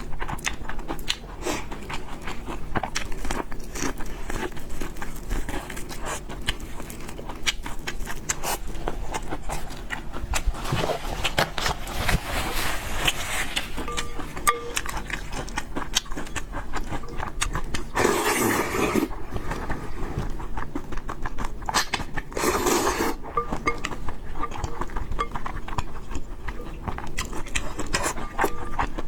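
Close-up eating sounds of a person chewing fried noodles with pork: a steady run of wet mouth clicks and smacks, with two louder stretches of about a second each past the middle.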